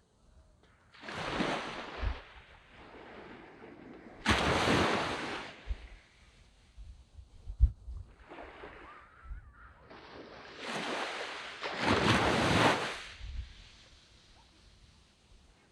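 Waves breaking and washing up a sand beach in four surges of surf that swell and fade, the biggest about four seconds in and again around twelve seconds. A few short low thumps come between the surges.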